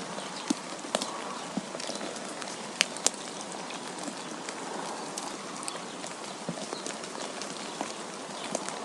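Winter storm ambience: a steady wind hiss with scattered sharp ticks of snow or ice striking surfaces, the two loudest close together about three seconds in.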